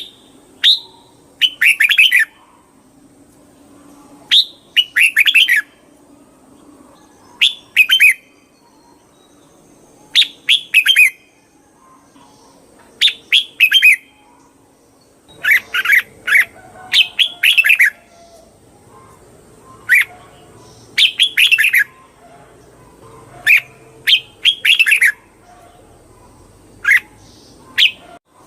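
Red-whiskered bulbul singing: short, loud phrases of a few quick chirpy notes, repeated every couple of seconds.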